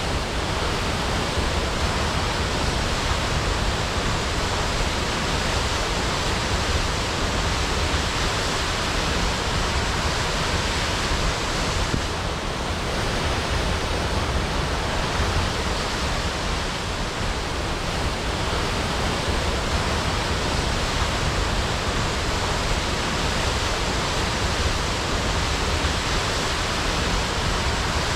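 Waterfall crashing: a steady, even roar of falling water without a break.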